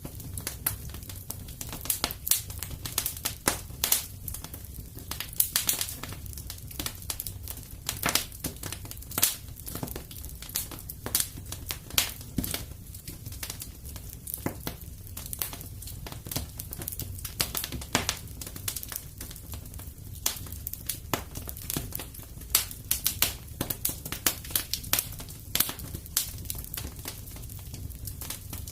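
Wood fire in a fireplace crackling and popping: many sharp, irregular snaps over a steady low rumble of burning.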